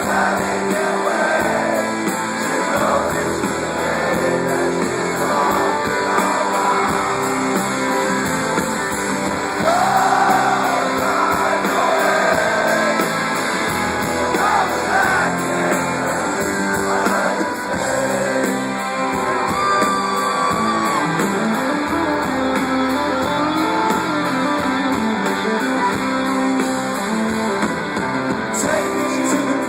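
Live rock music: a band with guitar playing and singing.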